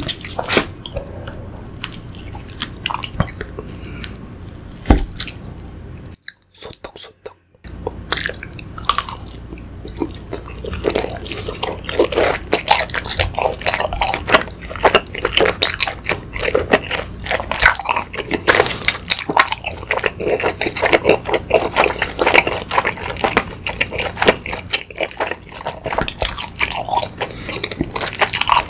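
Chewing and biting of sausage and rice-cake pieces in sticky sweet-spicy sauce: wet, squishy mouth sounds and short clicks, with a fork tapping the plastic tray. A brief break about six seconds in, and the chewing grows denser and louder from about ten seconds on.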